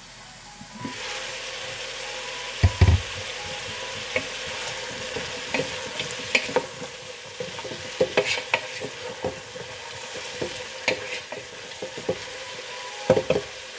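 Sliced beets and onions sizzling as they fry in oil in a non-stick pot, stirred with a wooden spoon that knocks and scrapes against the pot. The sizzle grows louder about a second in, a heavy knock comes near three seconds in, and more knocks come near the end.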